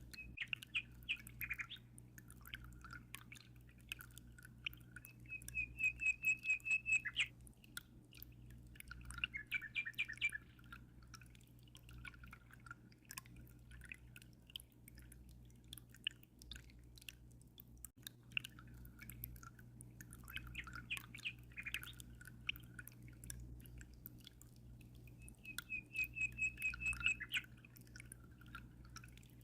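Songbirds chirping in short repeated phrases, with a fast trill of rapid notes about six seconds in and again near the end, over a steady low hum and trickling water.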